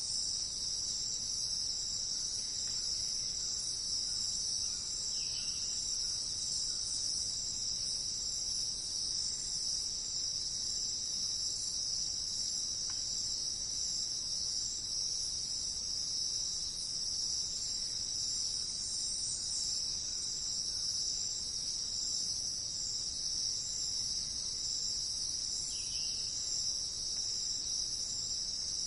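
Steady, unbroken high-pitched chorus of insects, with two faint brief chirps, one about five seconds in and one near the end.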